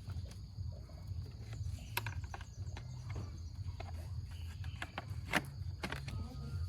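Scattered light clicks and knocks of hand tools and metal parts being handled during motorcycle repair, with the sharpest about two seconds in and twice near the end, over a steady low hum.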